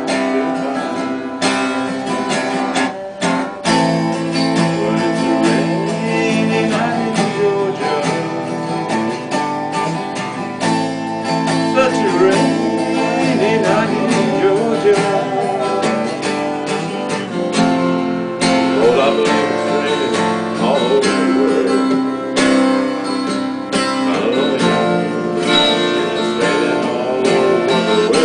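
Acoustic guitar strummed, with a man singing a slow soul ballad over it.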